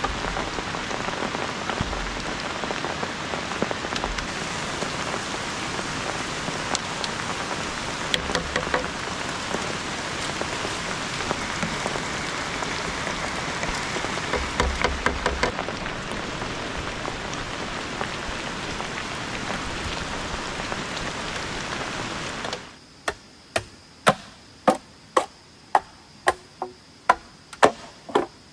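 Heavy rain falling steadily on the surroundings, with a few quick patters of sharper drips. Near the end the rain cuts off abruptly, and a series of about eleven sharp, ringing knocks follows, roughly two a second.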